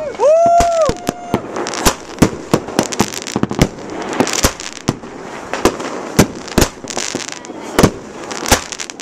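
Aerial fireworks bursting overhead: a run of sharp bangs, about one or two a second, with crackling between them. In the first second or so, a high tone rises and falls over the bangs.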